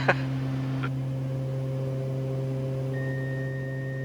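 Steady cabin drone of a Cessna Conquest 441's twin Garrett TPE331 turboprops and propellers in flight, an even low hum with steady overtones. A faint thin high tone comes in about three seconds in.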